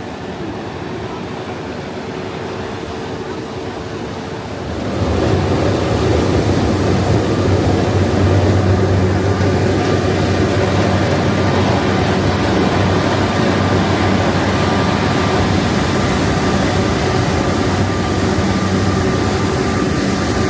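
Thames Clippers Uber Boat's engines running with a steady hum and water rush. About five seconds in they grow suddenly louder, with a strong low drone, and stay at that level.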